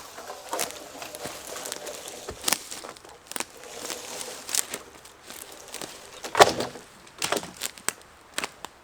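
Slow footsteps, roughly one a second, with a louder knock about six and a half seconds in.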